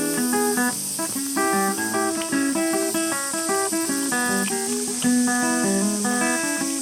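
Background music: acoustic guitar picking a melody of short plucked notes, with a steady high hiss underneath.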